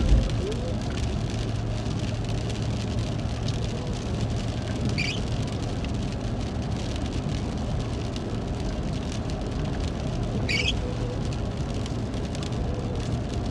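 A car driving in rain: steady engine and road noise with rain on the vehicle. Two short high squeaks come about five seconds apart.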